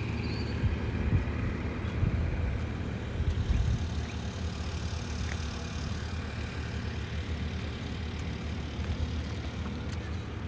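An engine running steadily with a low rumble, with a few louder bumps in the first few seconds.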